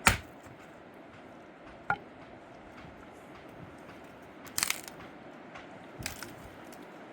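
A few sharp cracks and crunches: a loud one at the start, a smaller one about two seconds in, and two short crunching clusters near the end.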